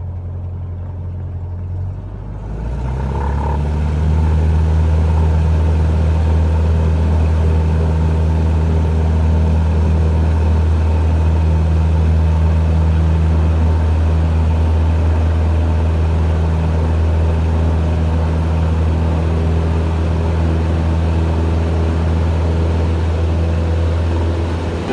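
Cessna 172's piston engine and propeller heard from inside the cabin: a steady low drone that rises in pitch and loudness about two seconds in as power comes up, then holds steady and loud.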